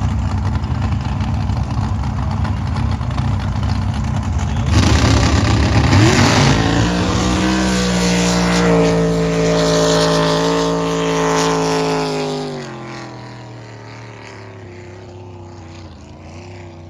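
Drag boat engines rumbling, then launching about five seconds in. The engine note climbs in pitch, holds steady at full throttle, and fades after about twelve seconds as the boats run down the course.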